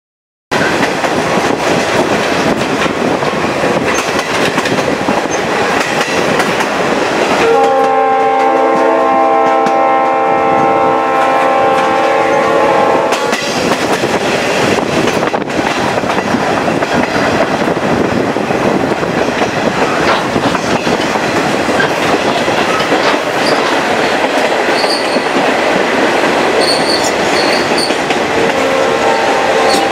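Chepe passenger train running on the mountain line, heard from a carriage window: a steady rumble and clatter of wheels on rail. The diesel locomotive's horn sounds one long chord of several notes for about six seconds, about a quarter of the way in, and starts again right at the end. A few short high squeaks near the end.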